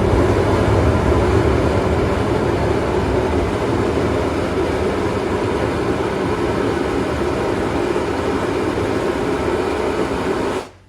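Boiler blowdown on former Great Western 2-10-0 Decapod steam locomotive No. 90: the bottom blowdown valve at the front of the boiler blasting steam and water out in a loud, steady rush that cuts off sharply near the end. It flushes settled sediment and scale out of the bottom of the boiler.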